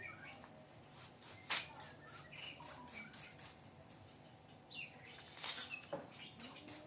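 Faint short chirps and peeps of a young sooty-headed bulbul, with two sharp clicks, one about a second and a half in and one past the middle.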